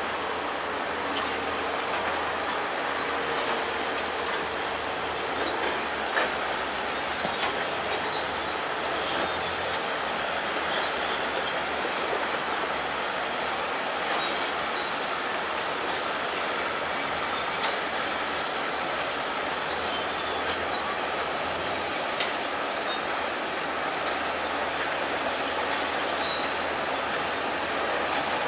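Crawler bulldozer working: a steady, dense clatter of engine and steel tracks with a faint high squeal and a few sharp knocks.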